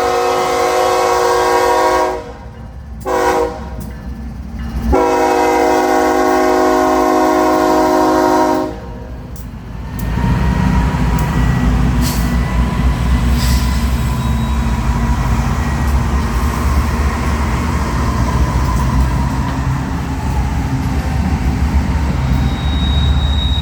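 Freight train horn, a multi-note chime, sounds a long blast, a short blast and another long blast, the close of a grade-crossing signal. About ten seconds in, the heavy low rumble of the BNSF diesel locomotives and train passing close by takes over and holds steady, with a faint thin squeal over it.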